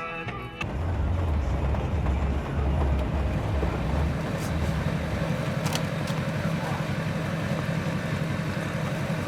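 Steady low rumble of a vehicle driving, engine and road noise, after a country guitar tune cuts off just under a second in; a couple of faint clicks midway.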